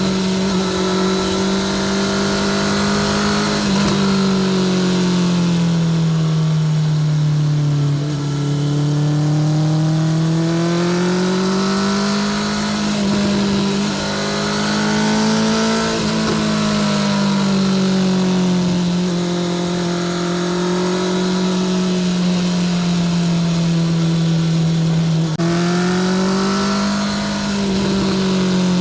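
Honda CBR650R's inline-four engine through a Spark full titanium exhaust, riding under way. The exhaust note is loud and slowly rises and falls with the throttle, with brief dips in loudness about 8, 14 and 25 seconds in.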